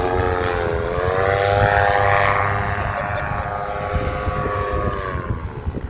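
Paramotor engine and propeller droning in flight, its pitch bending up about a second in, then holding steady and fading out shortly before the end.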